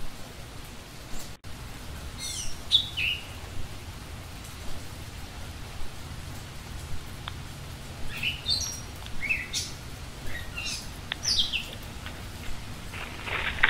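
Small birds chirping: short, high, falling notes, a few near the start and a denser run of them in the second half, over a steady low background hiss. The sound drops out for an instant a little over a second in.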